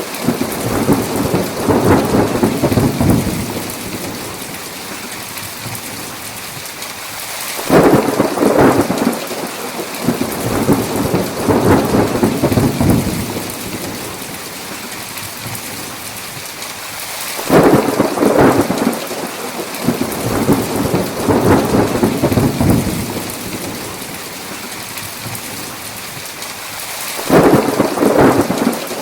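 Steady heavy rain with rolling thunder. Three thunderclaps each start suddenly and rumble on for several seconds, coming about every ten seconds: near 8 s, 17 s and 27 s in. The last of an earlier rumble fades out at the start.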